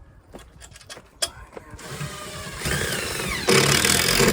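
Power screwdriver driving a screw: a few light taps, then the motor spins up with its pitch gliding up and down, and about three and a half seconds in it gets much louder as the screw drives home.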